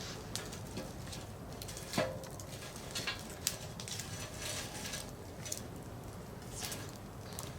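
Firewood burning in a campfire, crackling with irregular sharp pops and snaps, the loudest about two seconds in, over a soft hiss.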